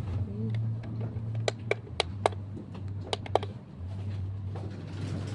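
A quick series of sharp clicks, about six in two seconds, over a low steady hum.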